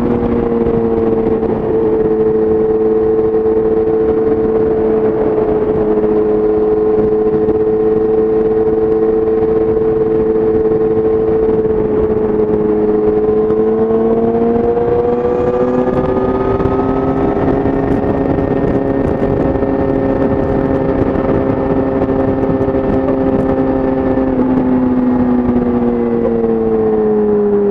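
2017 Yamaha YZF-R6's inline-four engine through an Akrapovic exhaust, running steadily at highway cruising revs. The revs climb a little about halfway through, hold, then ease off near the end.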